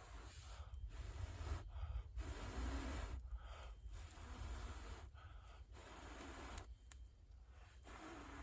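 Someone blowing in repeated long puffs through a fire-blowing pipe to feed air to a campfire, roughly seven puffs, each about a second, with short pauses for breath in between.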